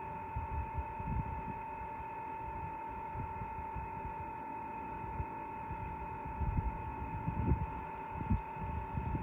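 VEVOR 8 kW diesel heater during a warm restart: its blower fan runs with a steady whine, while dull low thumps from the fuel dosing pump come in irregularly, more often in the second half.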